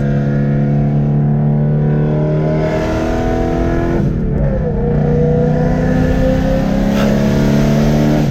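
Straight-piped 2010 BMW E92 M3's 4.0-litre V8 exhaust, loud from inside the cabin, pulling hard under acceleration. Its pitch climbs steadily, breaks and dips at an upshift about four seconds in, then climbs again until another shift near the end.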